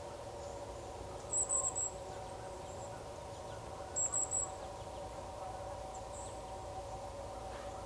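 A small bird's high, thin chirps in two quick bursts of three or four notes each, a couple of seconds apart, over a steady background drone of a few mid-pitched tones.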